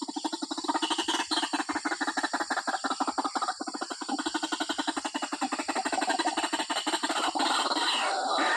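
Female white-breasted waterhen (ruak-ruak) calling for a male, a rapid, unbroken series of repeated notes.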